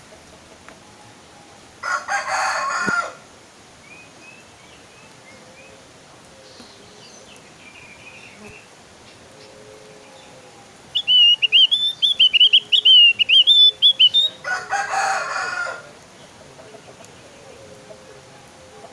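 Javan grey-throated white-eye (opior jawa) singing a rapid, high warbling song for about three seconds past the middle. Two harsher, noisy calls of about a second each come near the start and just after the song.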